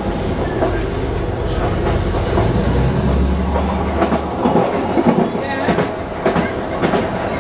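Interior running noise of a Class 150 Sprinter diesel multiple unit on the move. A low, steady underfloor diesel drone drops away about halfway through, leaving the wheels clicking and knocking over the rail joints.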